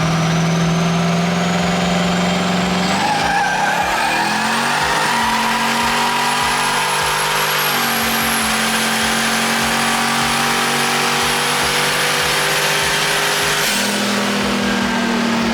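Twin-turbo LS V8 in a Fox-body Mustang run hard through the gears on a drag pass. The engine note steps with each gear change, and a high whistle climbs over it.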